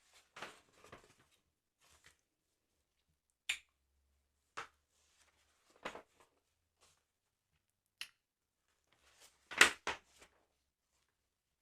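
Close-miked handling of a paper sticker album: a series of separate short taps, clicks and brief paper scrapes, the loudest cluster near the end.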